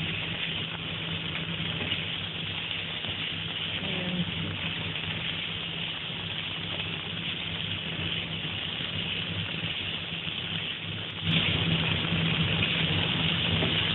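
Chicken pieces and vegetable slices sizzling as they stir-fry in a non-stick pan, over a steady low hum. The sizzle gets louder about eleven seconds in.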